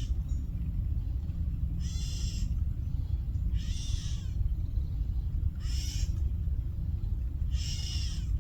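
Bird squawking harshly four times, about two seconds apart, over a steady low rumble: alarm and distress calls at a black snake raiding the nest.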